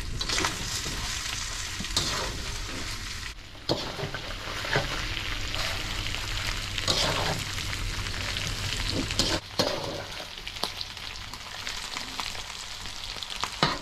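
Chicken pieces and chillies sizzling in a hot pan as they are stir-fried over a high flame, with a spatula scraping and knocking against the pan every few seconds.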